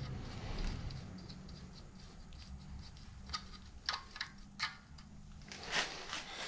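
Scattered light clicks and scrapes of tools and metal parts being handled, about four sharp clicks in the middle and a brief rustle near the end, over a faint low hum that fades early on.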